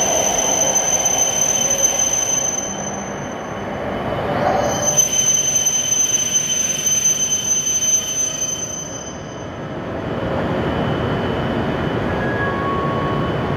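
Hokuriku Shinkansen E7/W7-series trains running through the station: a steady rumble with a thin, high-pitched whine on top. The whine drops away briefly about three seconds in, returns at its loudest, then fades after about nine seconds into a quieter, steady rumble.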